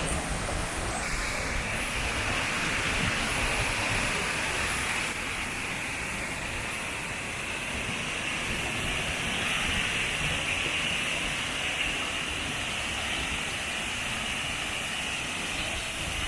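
Steady, unbroken rush of water from the waterfall and mountain stream, an even hiss with no distinct events.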